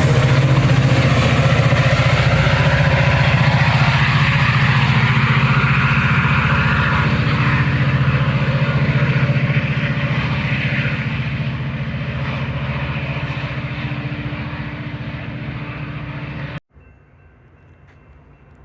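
Metra commuter train running past on the rails, a loud steady rumble with a low hum that fades over the second half as the train moves away. Near the end the sound cuts off abruptly to a much quieter background with a faint steady high tone.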